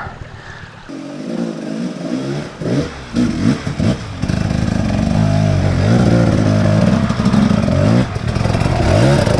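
Two-stroke 250 cc KTM 250 EXC dirt bike engine being ridden hard, revving up and down as the throttle is worked. It is fainter for the first second, then gets louder and stays loud from about halfway.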